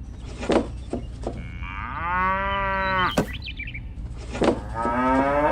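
Two long, drawn-out animal calls, the first held fairly level about two seconds in, the second rising in pitch near the end, over a steady low hum and a few sharp clicks.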